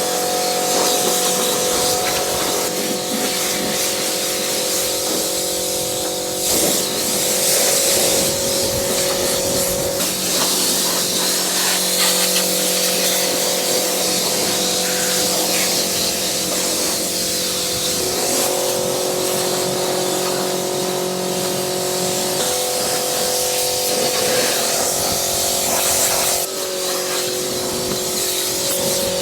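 Pressure washer running, its motor and pump humming steadily while the water jet hisses; the hum shifts slightly in pitch every few seconds as the load changes.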